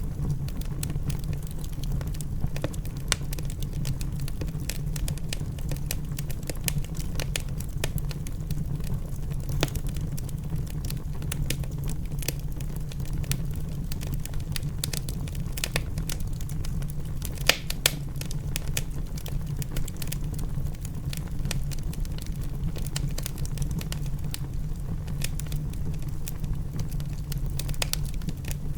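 Wood fire crackling in a fireplace, with frequent sharp pops over a steady low rumble. Two louder pops come close together a little past halfway.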